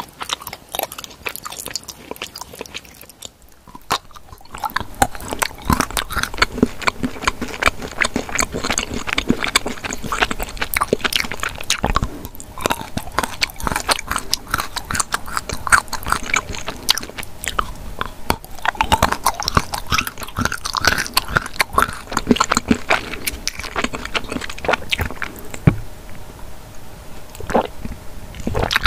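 Close-miked ASMR eating of chocolate shaped like tools: hard chocolate snapping under bites, then steady chewing with many sharp crunchy clicks. There is a brief pause about three seconds in.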